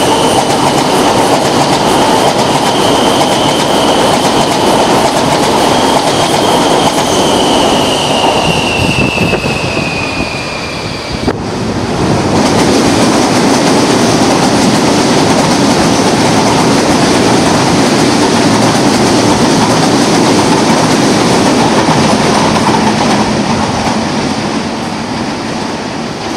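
CPTM electric commuter trains passing along the tracks: a loud, steady rumble of wheels on rail with a high whine that slides down in pitch, breaking off about eleven seconds in. After the break another train runs past, its noise fading near the end.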